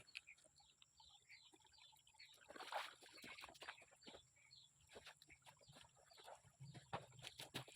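Faint forest ambience: short high bird chirps repeated here and there, with scattered small clicks and knocks.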